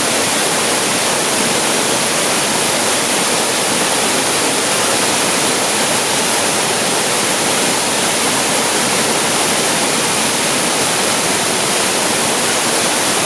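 Waterfall pouring water out of a cave: a loud, steady rush of falling water with no change.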